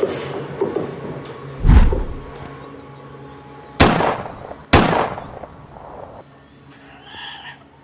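The rumble of a passing ore train's wagons dying away, a dull low thump, then two sharp clicks about a second apart from a subscribe-button sound effect.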